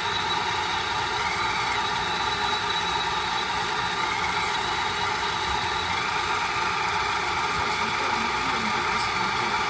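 Tamiya Volvo FH16 RC truck's steady engine idle sound, with a higher whine that swells and fades a few times.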